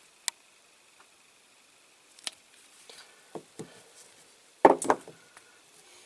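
Small sharp clicks and knocks of a diecast toy car and its parts being handled as a door is fitted into the body. The loudest is a quick double knock near the end.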